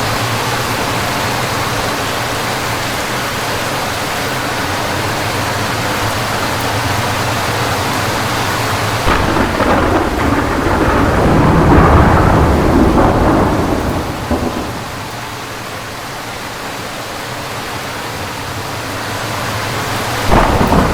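Steady rain from a thunderstorm, then a loud peal of thunder about nine seconds in that rumbles for several seconds before dying away. Another loud burst of thunder starts just before the end.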